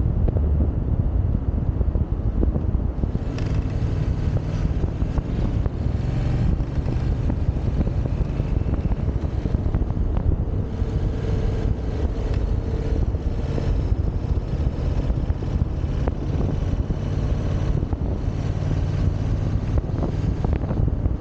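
Yamaha XSR700's parallel-twin engine running while riding, under heavy wind noise on the microphone.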